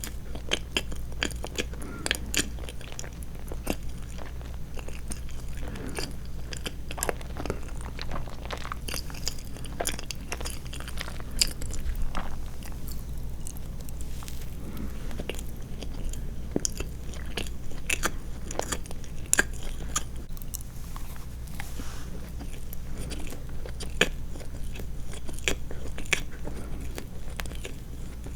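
Close-miked chewing of soft sweets, a steady stream of small wet mouth and tongue clicks with no pauses. A steady low hum sits underneath.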